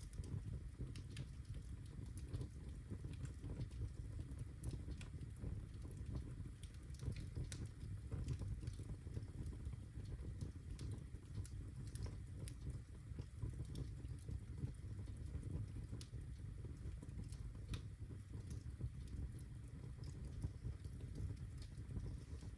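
Birch logs burning in a fireplace: a steady low rumble of flames with scattered sharp crackles and pops throughout.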